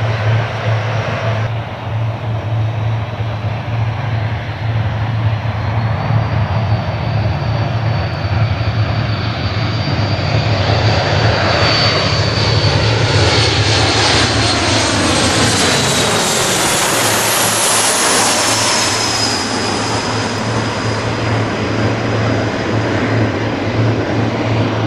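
Boeing C-17A's four turbofan engines as the aircraft passes, the sound building to its loudest about two-thirds of the way through. A high whine drops in pitch as it goes by.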